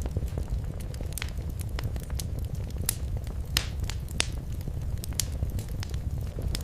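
Wood fire crackling in a fireplace: irregular sharp pops and snaps over a steady low rumble of the flames, with a couple of louder pops about halfway through.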